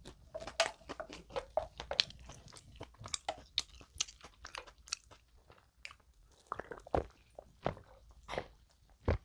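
Close-miked chewing of bread, with many short crunches and mouth clicks. In the second half the chewing thins out into a few separate gulps as soda is drunk from cans.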